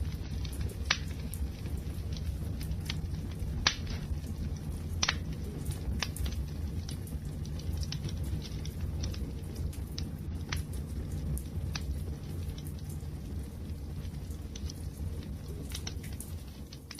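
Wood fire burning, with a steady low rumble and irregular sharp crackles and pops, the loudest about a second in and near four and five seconds.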